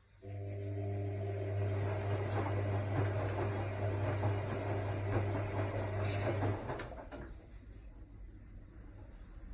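AEG Lavamat L62850L washing machine mid-cycle: a steady electric hum starts suddenly with a rushing noise over it, runs for about six seconds, then stops with a couple of clicks, leaving a quieter background.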